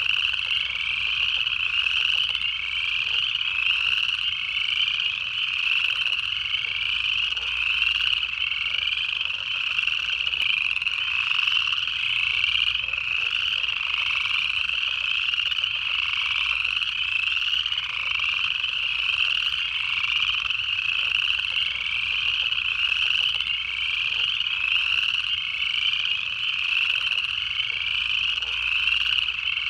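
A chorus of upland chorus frogs calling continuously, their rising trills overlapping one after another.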